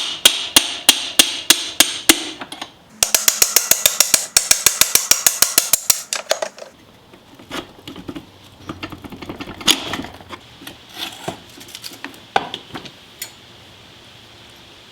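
Hammer strikes driving out a dirt bike's seized swingarm pivot bolt: steady sharp blows about three a second, a short pause, then a quicker run of ringing metal strikes for about three and a half seconds. After that come scattered lighter metal clanks and clicks.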